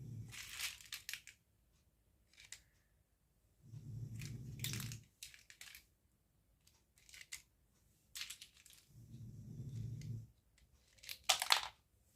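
Toy packaging and plastic pieces handled close to the microphone: bursts of crinkling and tearing with sharp clicks and rubbing, a few seconds apart. The loudest crackle comes near the end.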